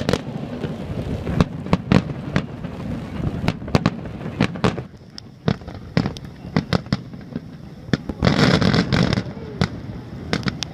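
Fireworks display: an irregular series of sharp bangs from bursting shells, with a denser crackling burst about eight seconds in.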